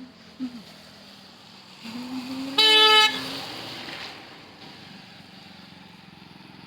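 A vehicle horn honks once, a short loud blast about two and a half seconds in, over the steady hum of a car on the road.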